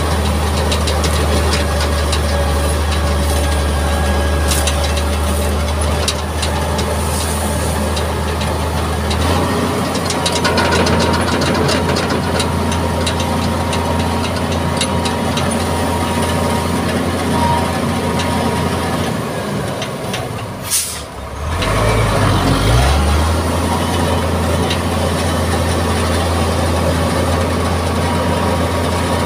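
Mitsubishi MG330 motor grader's diesel engine running steadily under work. Its note shifts about a third of the way in, then dips and climbs back in pitch about two-thirds of the way through, with a brief hiss near that point.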